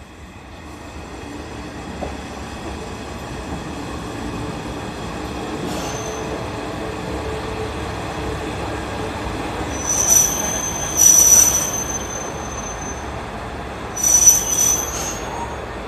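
Two-car Hisatsu Orange Railway HSOR-100 diesel railcar pulling in to a platform: a rumble that builds over the first few seconds and holds steady, then high-pitched metallic squeals from the running gear as it slows, coming three times in the second half, the middle one the longest.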